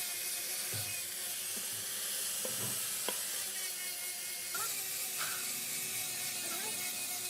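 A few scattered light knocks and taps over a steady hiss and a faint hum.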